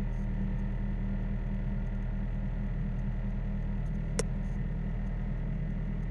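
Toyota Starlet EP91's four-cylinder engine idling steadily after a cold start, with one brief click about four seconds in.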